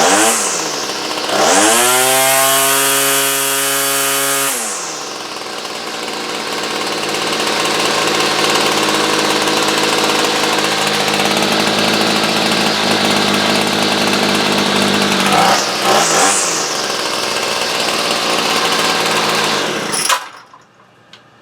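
Small two-stroke chainsaw engine running on a freshly tuned carburettor: it is revved up to high speed for a few seconds and drops back to a steady idle. It is blipped once more, then shut off suddenly near the end.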